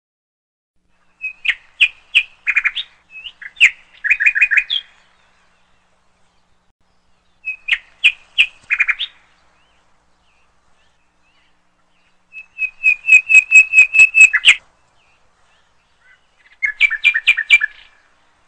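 A songbird singing in four short phrases of quick chirps and trills, the third a fast run of repeated notes, with complete silence between phrases.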